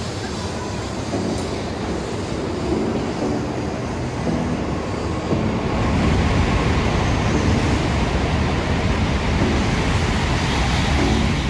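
Tokaido Shinkansen bullet train running past a station platform at speed: a steady rush of air and wheels on rail that grows louder about halfway through and eases as the last car goes by near the end.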